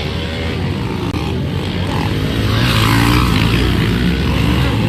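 Small pit bike engines buzzing and revving up and down under race load.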